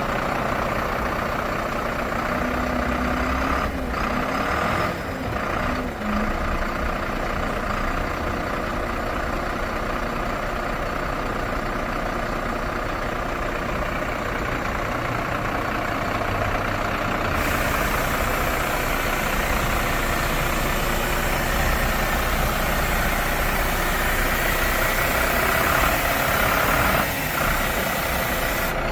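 Iveco Stralis 330 EEV garbage truck's diesel engine running steadily at idle. A higher hiss joins about two-thirds of the way through.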